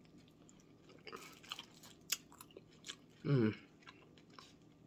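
A person chewing a mouthful of food close to the microphone, with small wet clicks and crunches, and a short closed-mouth "mm" of approval about three seconds in.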